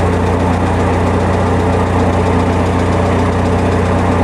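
Old Massey tractor engine running steadily at a low, even speed.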